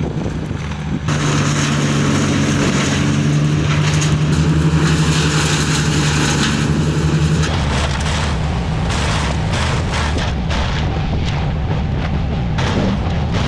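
An engine-driven machine running steadily with a strong hum and a wide rushing noise. About seven seconds in its note drops and irregular cracking knocks begin.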